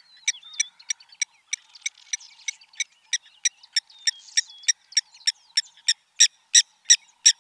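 Blacksmith lapwing calling: a steady series of sharp, metallic 'tink' notes, about three a second, louder near the end, with faint whistled calls behind.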